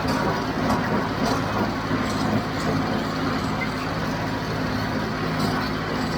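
John Deere tractor's diesel engine running steadily under load while pulling a John Deere 348 square baler through the field, with sharp mechanical clacks from the baler every so often.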